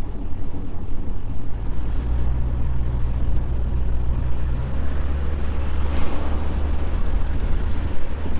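Van engine running steadily with road noise while driving along.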